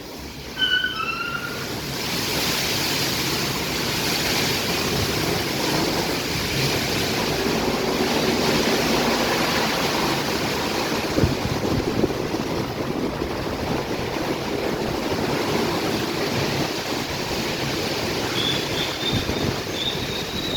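Istobal M12+ rollover car wash gantry spraying water onto a car, a steady loud hiss of spray that swells in over the first two seconds. A short falling two-note tone sounds just before the spray starts, and a thin rising squeal comes in near the end.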